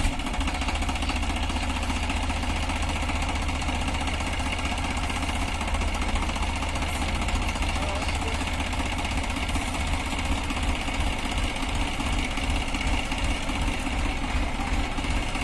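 Massey Ferguson 5245 DI tractor's diesel engine running steadily.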